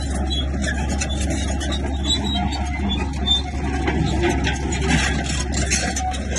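Bulldozer diesel engine running steadily, with a continuous metallic rattle and scraping over it.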